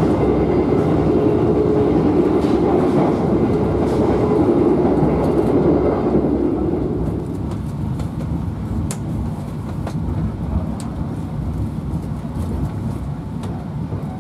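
Running noise of the KA Bima executive passenger train heard inside the carriage: a steady rumble of wheels on rail that drops noticeably about seven seconds in as the train enters the station, with a few light clicks.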